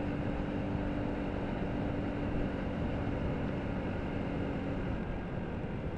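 Motorcycle engine running at a steady note while riding, under a steady rush of wind and road noise; the engine's note fades away about five seconds in.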